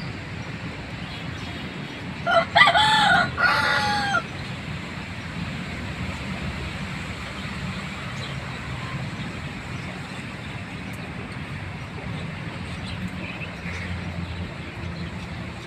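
A single loud bird call about two seconds in, lasting about two seconds in several arched, pitched segments, over steady background noise.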